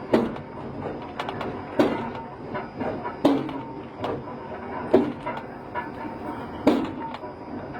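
Slow-moving railroad steel on rails: a metal clank about every second and a half, each ringing briefly, over a steady mechanical rumble, as from a railroad turntable turning slowly.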